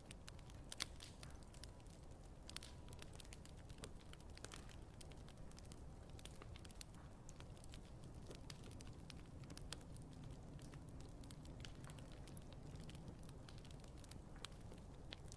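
Wood fire crackling quietly: irregular sharp pops and snaps over a low steady rumble, with one louder pop about a second in.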